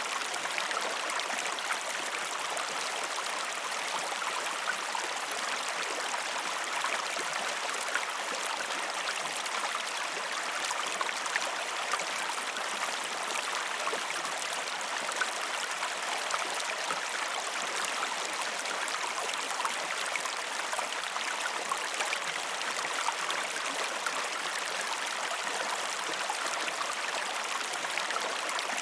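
River water flowing, a steady rushing hiss scattered with small splashes and trickles.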